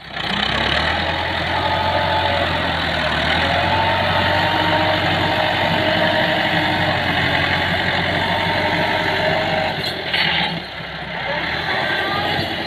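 Massey Ferguson tractor's diesel engine running steadily, its level dropping briefly about ten seconds in.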